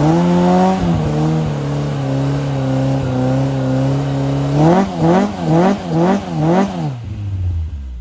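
Ford Escort RS Cosworth's turbocharged four-cylinder engine held at a steady raised speed, then blipped five times in quick succession, each rev rising and falling sharply, before settling to a lower idle near the end.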